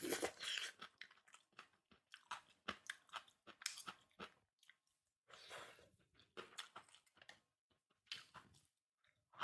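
Quiet, close-miked chewing: a run of soft, irregular crunches and mouth clicks as someone eats rice and stir-fried vegetables.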